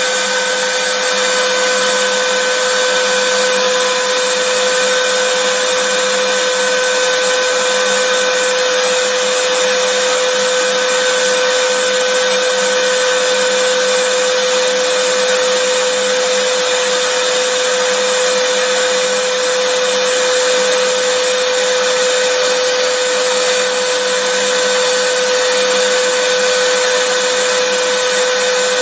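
Vacuum cleaner running continuously, a steady whining hum with a strong motor tone over an even rush of air, unchanging throughout.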